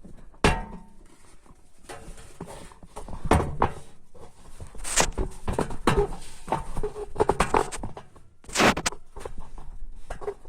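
Irregular knocks, clicks and scrapes of handling, at uneven spacing, with a sharp knock about half a second in and louder ones near the middle and near the end; no engine is running.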